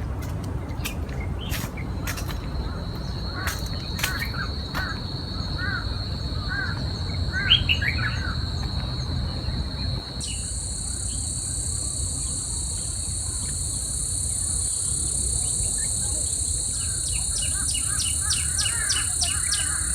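Forest insects droning steadily: one high, even drone joins about two seconds in and a louder, higher one starts about ten seconds in, with birds chirping in between and a quick run of ticks near the end.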